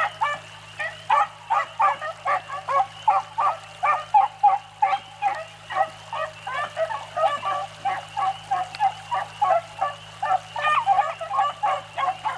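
Pack of beagles baying on a rabbit's track: many short yelping barks overlapping in a continuous chorus, a sign that the hounds are on the scent and driving it.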